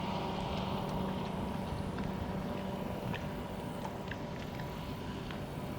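A 75 hp Evinrude V4 two-stroke outboard motor running steadily as the boat moves under power, a constant hum with a faint whine.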